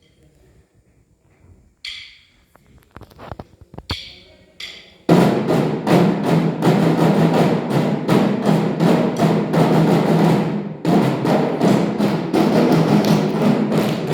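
A few seconds of quiet with scattered sharp clicks, then, about five seconds in, a group of drums starts playing a fast, loud marching beat that continues with a brief break near the end.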